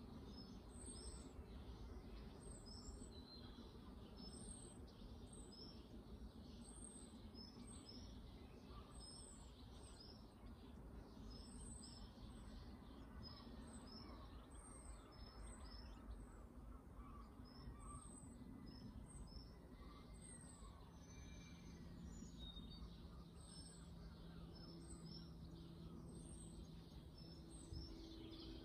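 Faint outdoor background hum with a small bird calling in short, high, thin notes, repeated about once a second. A faint steady low hum comes in past the middle.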